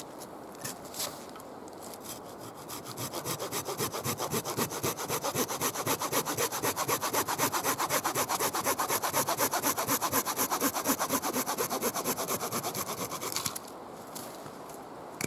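Hand saw cutting through wood in quick, even back-and-forth strokes. It starts about three seconds in, gets louder, and stops suddenly near the end.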